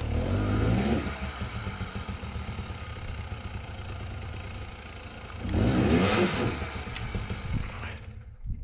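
Two-stroke KTM dirt bike engine revving in bursts on a steep technical climb. It revs hard in the first second and again, pitch rising, about five and a half seconds in, with quieter, uneven running between. The sound falls away sharply near the end.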